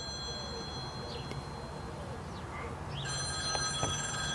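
Electronic telephone ringing with steady high tones. The ring stops after about two seconds and starts again a second later, near the end.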